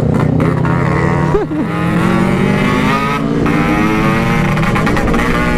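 Yamaha RX-King's 135cc two-stroke single-cylinder engine running while riding, with a straight-looking aftermarket silencer. Its pitch climbs as it pulls, dips briefly about three seconds in, then climbs again.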